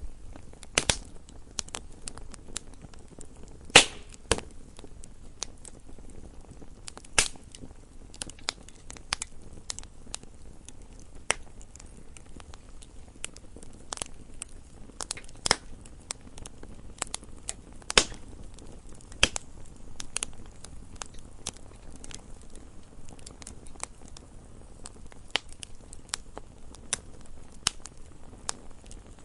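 Wood fire in a fireplace crackling, with irregular sharp pops and snaps over a low steady rustle of burning.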